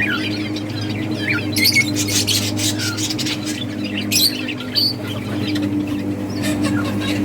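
Budgerigars chirping and chattering, with a run of harsh, scratchy squawks between about one and a half and three seconds in, and more a second later.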